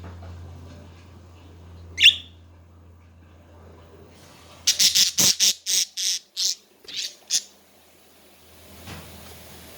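Budgerigars calling: a single short chirp, then a quick run of about nine sharp chirps and squawks a few seconds later.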